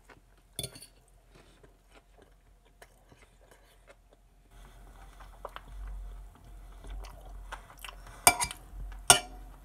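A person chewing a mouthful of food, with a few sharp clicks of a metal fork and knife against a plate; two louder clinks come near the end.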